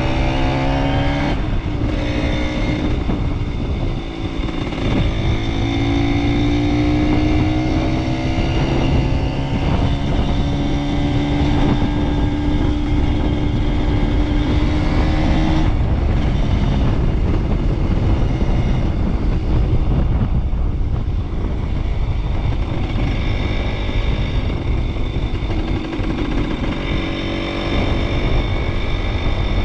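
Small single-cylinder motorcycle engine pulling under way, its pitch climbing and dropping back at each gear change, several times, over steady low wind rumble on the microphone.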